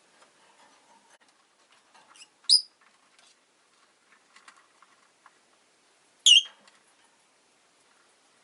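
Rosy-faced lovebird giving two short, sharp, high-pitched chirps about four seconds apart, with faint clicks and rustling from the cage between them.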